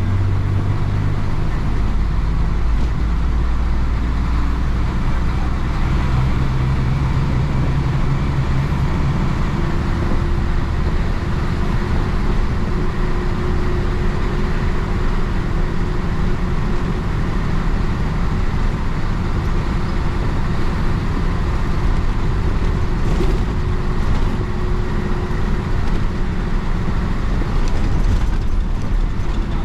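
1966 Isuzu BXD30 bonnet bus's DA640 diesel engine running as the bus drives along, with road noise. Its low engine note shifts in pitch a few times during the first ten seconds, then holds steady.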